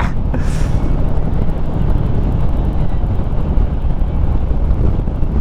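Harley-Davidson Street Rod 750's V-twin engine running steadily while riding, with wind rushing over the microphone.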